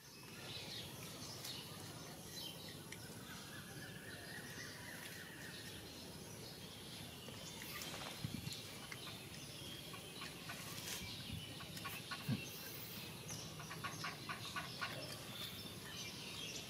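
Faint outdoor ambience with birds chirping, a few soft thuds, and a quick run of small clicks near the end.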